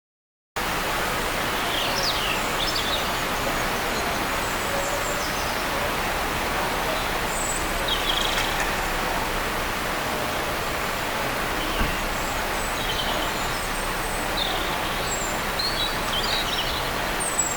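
Small songbirds giving short, high calls every few seconds over a steady background hiss of outdoor noise. The sound cuts in about half a second in.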